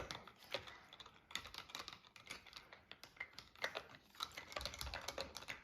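Faint, irregular plastic clicking and rattling as a toy capsule holding a small monster truck in water is handled and shaken.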